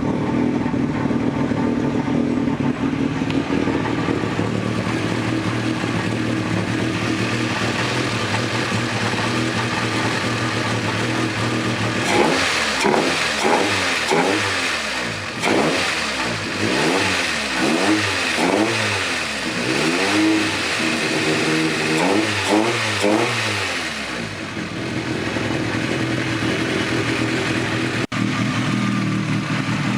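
Nissan March's CG13DE 1.3-litre four-cylinder engine idling steadily, then revved in a run of quick blips, each rising and falling, for about twelve seconds in the middle, before settling back to idle.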